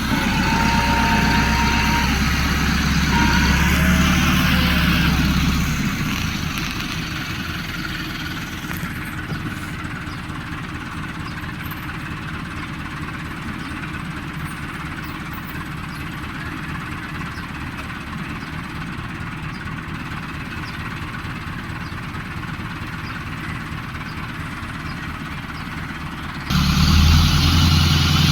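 Engine of harvest machinery running steadily. It is loudest for the first few seconds, eases to a quieter steady run, and jumps back up abruptly near the end.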